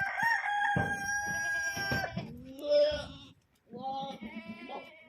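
Goats bleating: one long, steady call of about two seconds, then two shorter calls.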